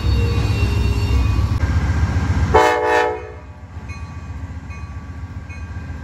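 Amtrak diesel train rumbling close by, then a short, loud blast of a multi-note train horn about two and a half seconds in. After that the sound drops to a quieter, more distant locomotive rumble, with a faint dinging that repeats at a steady pace.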